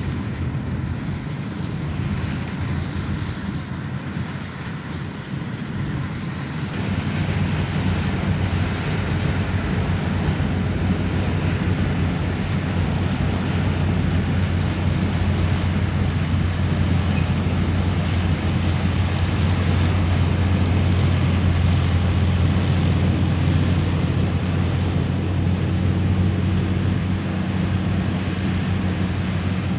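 Combine harvester running steadily: a low engine hum over a rushing noise, growing louder about seven seconds in and then holding.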